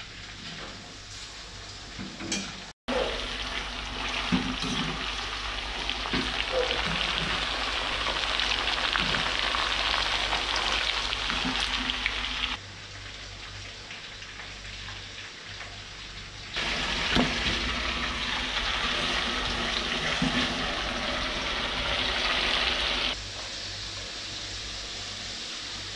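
Chicken pieces deep-frying in a wok of hot oil, a steady sizzle with a few light knocks. The sizzle is loud from about three seconds in until about twelve seconds, drops fainter for a few seconds, is loud again until about twenty-three seconds, then fades back.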